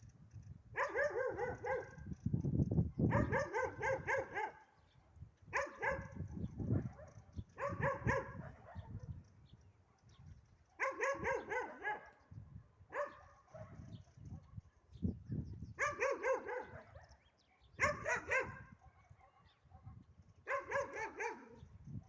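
Dog barking in repeated bursts of quick barks, about nine bursts each lasting around a second, with short pauses between them.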